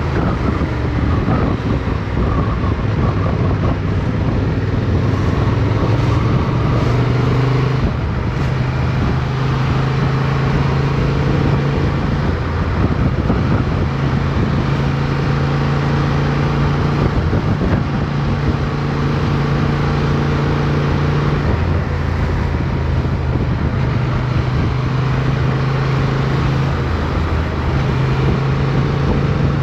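Motorcycle engine running at steady road speed under a haze of wind and road noise, its note shifting and dipping several times as the revs change.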